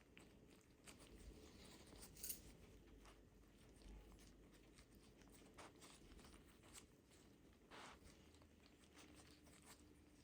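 Near silence with faint scattered clicks and short rustles of things being handled; the sharpest click comes about two seconds in.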